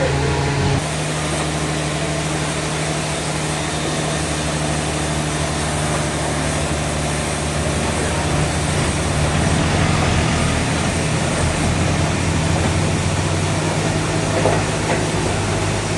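Sawmill machinery running steadily: an engine's low, even drone under a dense rushing noise.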